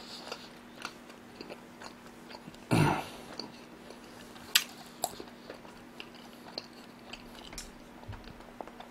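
Mouth-closed chewing of a mouthful of sushi with pickled ginger: soft, wet mouth clicks and smacks scattered throughout, over a faint steady hum. A short breathy rush comes about three seconds in.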